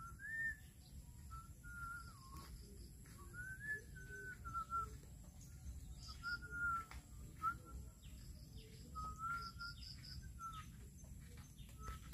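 Birds singing in the open: a clear, wavering whistled phrase repeated again and again, with short high chirps in between, over a low background rumble.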